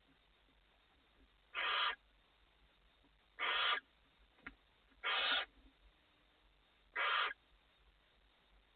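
Barn owl in the nest box giving four short hissing screech calls, about two seconds apart, with a light click between the second and third.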